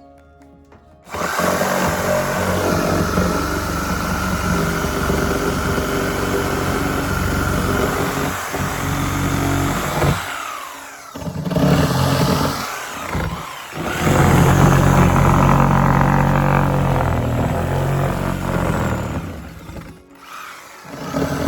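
Electric power tool running under load in two long runs, the first winding down with a falling pitch about ten seconds in, with shorter bursts between.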